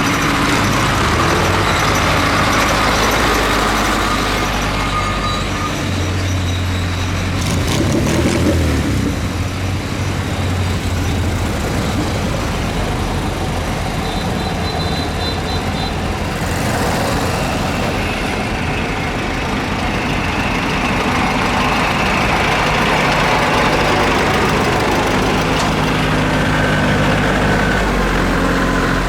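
Several tractor engines running, with different engine tones taking over one after another.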